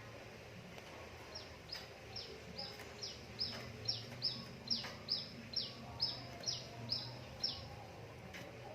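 Yellow-vented bulbul (trucukan) calling a run of about fifteen short, high, falling notes. The notes begin a second and a half in, come quicker and louder through the middle, and stop about a second before the end.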